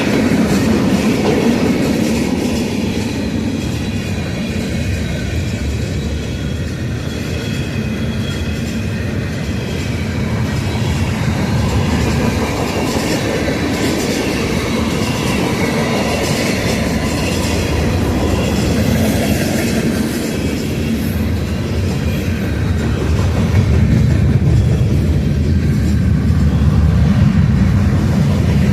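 Freight cars of a passing manifest train rolling by on the rails: a steady wheel-and-rail rumble with faint high ringing from the wheels, swelling louder near the end.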